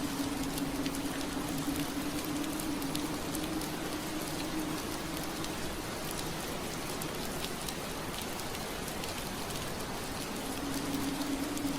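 Steady rain falling on a window pane, with many small drops ticking. Under it runs a low steady hum that fades out about a third of the way in and comes back near the end.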